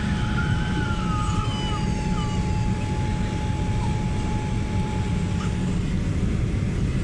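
Airliner cabin noise: a steady low rumble with a thin, steady high whine that stops about six seconds in.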